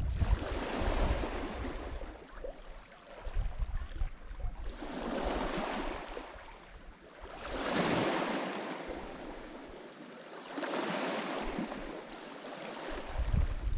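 Lake Michigan waves breaking on the shore. The surf rushes in and ebbs in repeated swells, one about every three seconds.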